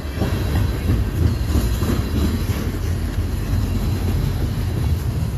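Freight train cars rolling past close by: a steady low rumble of steel wheels on the rails.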